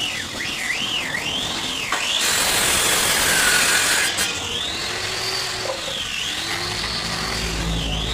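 A woodworking power tool runs in one loud burst of about two seconds. Around it a warbling, siren-like tone rises and falls over and over, slower in the second half.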